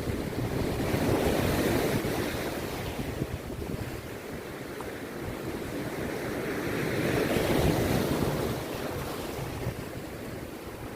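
Rough sea surf breaking on a beach, two waves swelling and washing in one after the other, with wind rumbling on the microphone.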